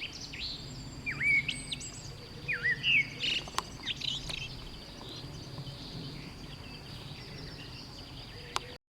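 Several wild birds chirping and singing. Loud swooping whistled calls come about a second in and again around three seconds, over a constant high-pitched buzz. The recording cuts off suddenly just before the end.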